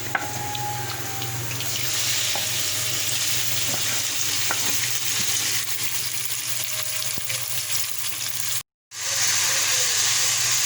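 Cubed raw chicken sizzling as it fries in hot oil with garlic-ginger paste, the sizzle swelling after about two seconds. The sound cuts out for a moment near the end, then the frying carries on.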